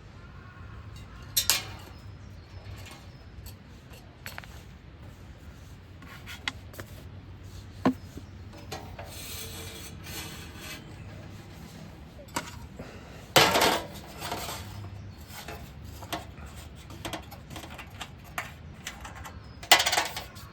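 Camp gear being handled: scattered knocks, clinks and rubbing of metal and wooden items, with three louder clatters, one early, one about two-thirds of the way through and one near the end.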